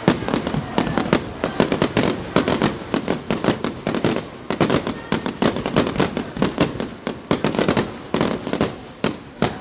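Fireworks going off in a rapid, unbroken volley of sharp bangs, several a second.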